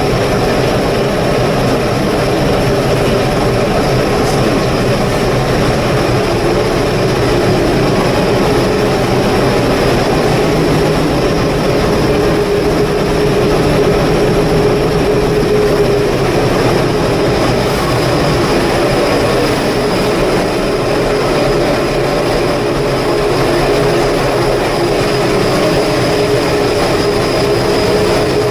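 A cargo ship's machinery running steadily under way: a constant loud drone with a steady high whine over it.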